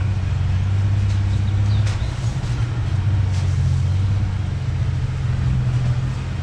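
1993 Ford Ranger pickup driving slowly on a dirt trail, its engine a steady low drone that shifts pitch about two seconds in, with a few faint clicks and knocks over it.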